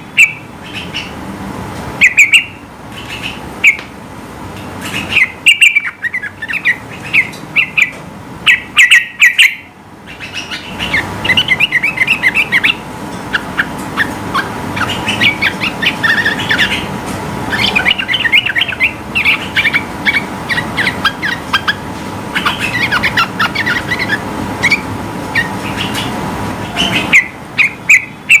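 Yellow-vented bulbul (trucukan) singing loud, short bubbly phrases again and again, then breaking into long, rapid runs of chattering notes about ten seconds in.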